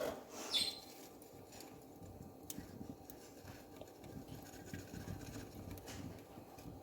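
Small wood fire in a newly lit fireplace, burning quietly with faint scattered crackles as the kindling catches, and one sharper crack about two and a half seconds in.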